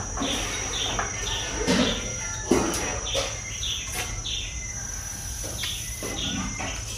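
Birds chirping: a series of short, falling chirps, about two a second, over a steady high-pitched insect drone.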